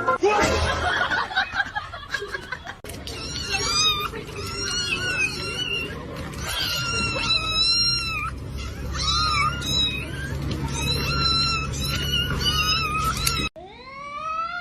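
A cat meowing over and over, a run of high calls that bend up and down in pitch, some short and some drawn out.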